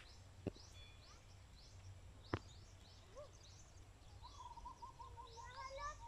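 Faint, quick high chirps of small birds repeating throughout, with a run of rapid lower call notes in the last couple of seconds. Two sharp clicks about half a second and two and a half seconds in, over a low steady rumble.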